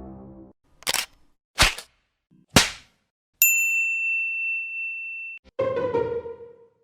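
A string of stock meme sound effects: three short sharp hits about a second apart, then a bright bell ding that rings clear for about two seconds and cuts off suddenly, then a lower, buzzy tone that sags slightly in pitch.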